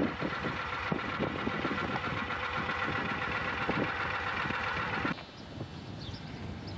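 A motor engine running steadily with a rough low rumble, cutting off suddenly about five seconds in. A quieter outdoor background follows, with a few short high chirps.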